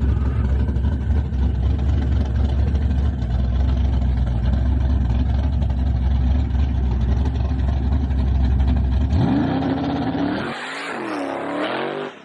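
Car engine idling with a steady, deep rumble, then revved about nine seconds in, its pitch rising and wavering up and down with throttle blips, before the sound cuts off suddenly near the end.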